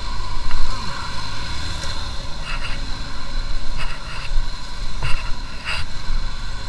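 Motorcycle engine running while riding, with a few short high-pitched chirps over it in the second half.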